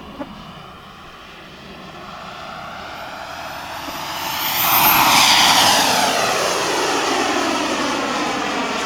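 Jet-Italia Kayman 190 model jet turbine flying past: the noise grows louder, is loudest about five seconds in, and a high whine drops in pitch as it goes by, then the noise eases off a little.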